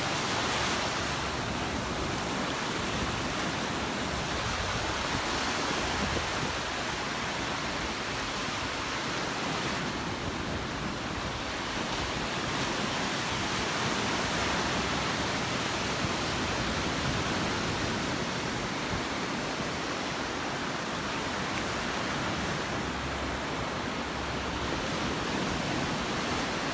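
Surf breaking and washing on the beach: a continuous hiss of waves that swells slightly a few times.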